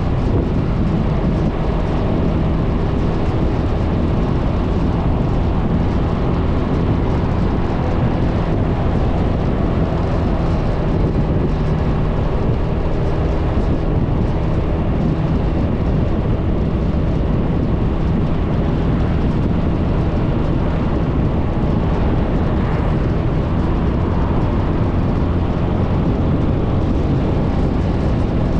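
Suzuki Burgman 400 scooter's single-cylinder engine running steadily while riding, with road and wind noise on the microphone.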